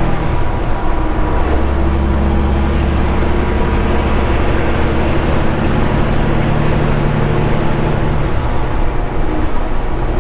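Straight-piped Caterpillar 3406E diesel in a Kenworth W900 pulling under load, its engine drone shifting in pitch. Over it a high turbo whistle dips about a second in, climbs back and holds, then falls away near the end.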